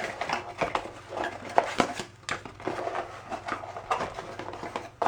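Irregular clicks, taps and light rattling of small hard objects being handled by hand, several sharp knocks among softer clatter.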